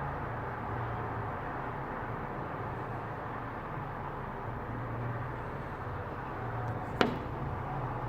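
Steady outdoor noise during a thunderstorm, with a low hum and a single sharp crack about seven seconds in.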